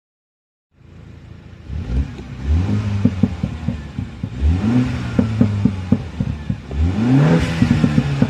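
Mini Cooper S (F56) 2.0-litre turbocharged four-cylinder revved through its exhaust in four quick rising blips, with many sharp crackles between them. It starts suddenly about a second in.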